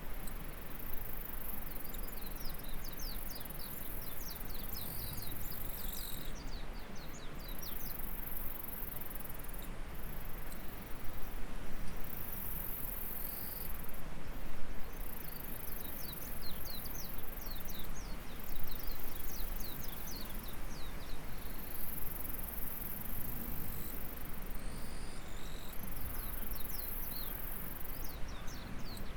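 Insects trilling in a continuous high-pitched drone that breaks off briefly now and then, over the steady sound of running river water. Several times a bird gives quick runs of short chirps.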